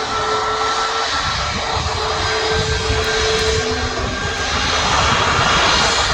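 Jet airliner engines running: a steady rushing noise with a faint whining tone, growing louder about five seconds in.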